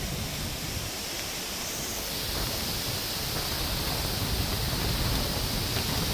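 Wind and the hiss of an approaching thunderstorm's rain, growing steadily louder as the downpour arrives.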